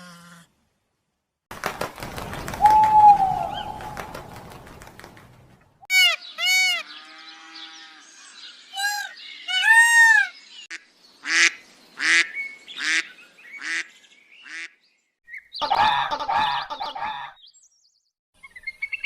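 Geese honking: a series of separate clips of repeated honking calls, some arching up and down in pitch, others short and sharp, with a stretch of background noise early on.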